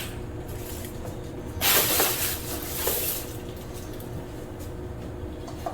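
A scraping, sliding noise lasting about a second and a half, about one and a half seconds in, as a window air conditioner unit is shifted into place in the window frame.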